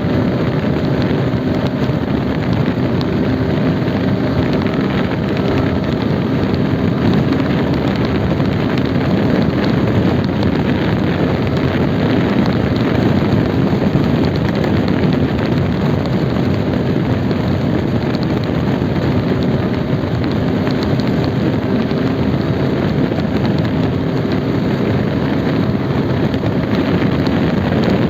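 Motorcycle running at a steady cruising speed, its engine hum mixed with rushing wind and road noise.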